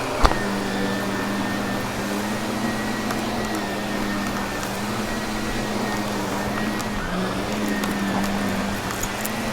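Vacuum cleaner running steadily as it sucks up crunchy debris from carpet, with a sharp click just after the start and faint scattered crackles.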